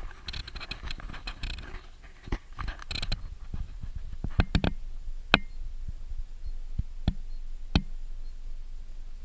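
Vehicle jolting over a rough dirt road: a low rumble with scattered sharp knocks and short rattles, several loud single knocks between about four and eight seconds in.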